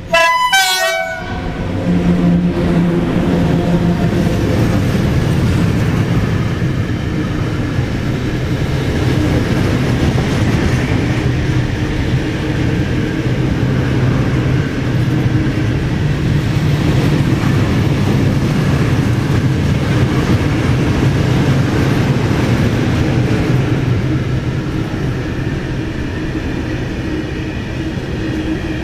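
An ET22 electric freight locomotive sounds its horn once, a blast about a second long. Then a long train of open coal wagons rolls past with a steady rumble of wheels on rail, easing a little near the end.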